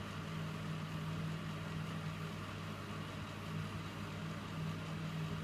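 Electrolux W455H commercial washing machine running with a steady, even hum.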